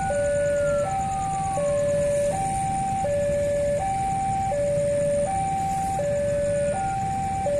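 Ambulance two-tone hi-lo siren, alternating evenly between a higher and a lower note about every three quarters of a second at a steady level, with a fainter falling tone under it twice.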